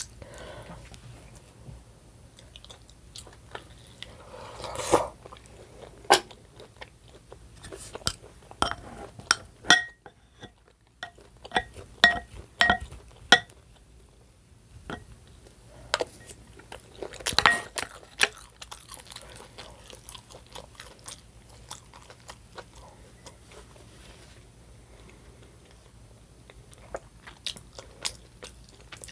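A person chewing and biting food close to the microphone, with sharp clicks and small clinks scattered through. About halfway through comes a quick run of ringing clicks, and a louder burst of chewing noise follows a few seconds later.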